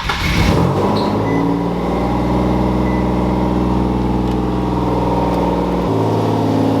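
Nissan 370Z's V6 starting cold: it catches with a short rise in revs in the first second, then settles into a steady idle whose low rumble eases near the end. The owner says an exhaust leak can be heard on it.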